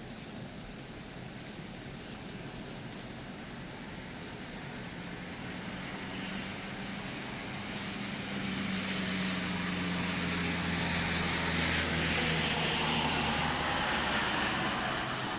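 A vehicle passing by: its sound swells slowly to a peak near the end and then fades, a steady low hum with a hiss over it that drops a little in pitch as it goes past.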